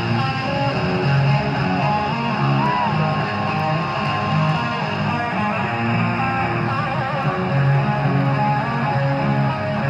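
A metal band playing live: an electric guitar lead with long, bending sustained notes over guitar chords and bass.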